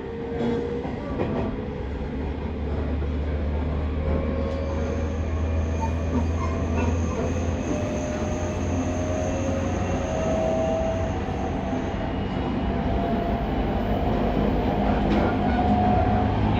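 JR 209 series 2100 subseries electric train running, its motor and inverter tones slowly climbing in pitch and getting louder as it gathers speed, over steady rolling rail noise.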